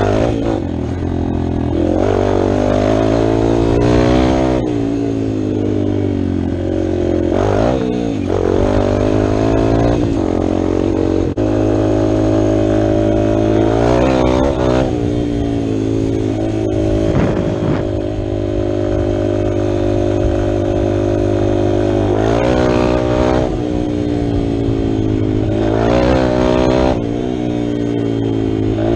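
Dirt bike engine accelerating hard, its pitch climbing and then dropping at each gear change, several times over.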